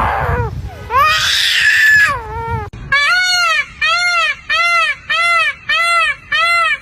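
A shrill, noisy scream about a second in, then a steady run of short wailing cries, each rising and falling in pitch, about seven of them at under two a second.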